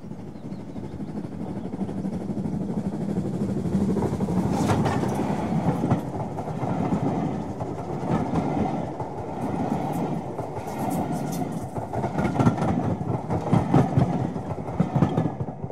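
A train running past: a steady rumble that builds over the first few seconds, with the wheels clicking irregularly over rail joints.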